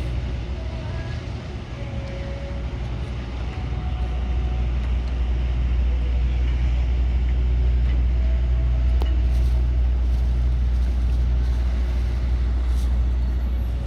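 Steady low engine rumble that grows louder over the first several seconds, then holds.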